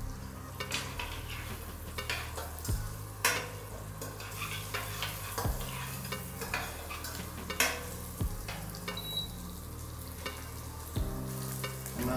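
A steel spoon stirs and scrapes chopped onions, green chillies and curry leaves frying in oil in a stainless steel pot, with a steady sizzle and repeated clinks of metal on metal. Under it an induction cooktop hums low, the hum changing with a click about every three seconds as the cooker cycles its power.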